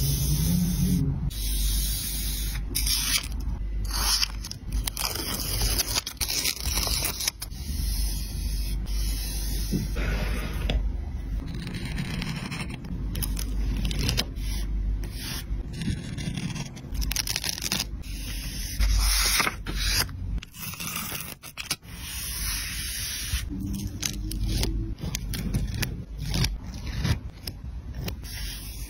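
Paper and stickers being handled and rubbed down on a journal page: irregular scraping and rustling strokes.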